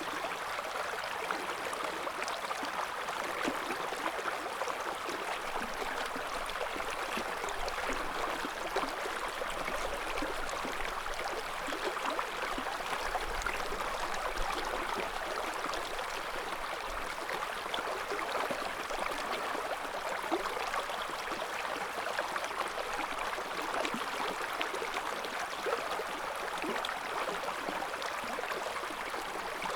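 River water flowing over rocks in a steady, even babble with small splashes and gurgles. A faint low rumble sits under it for several seconds in the middle.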